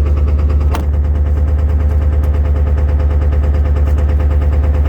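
7.3-litre V8 diesel truck engine idling with a rapid, even clatter just after a cold start, not yet burning its fuel right; the owner suspects gelled fuel. One sharp knock a little under a second in.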